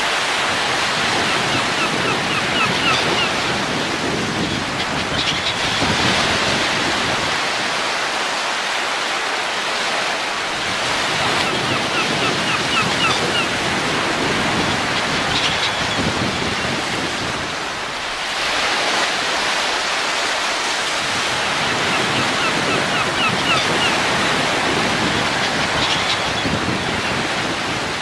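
Wind blowing steadily, swelling and easing in slow gusts. About every ten seconds there is a short run of quick high chirps.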